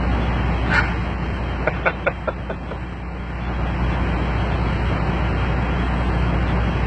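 Semi-truck diesel engine idling with a steady low rumble. A brief squeak just under a second in, then a quick run of about six fading clicks about two seconds in.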